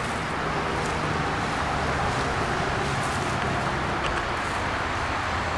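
Steady outdoor background noise with a low rumble underneath.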